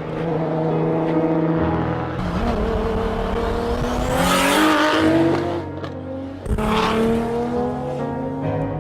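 Racing car sound effects over background music: engine revving with rising pitch, and two loud rushing swooshes of cars passing, about four and a half and seven seconds in.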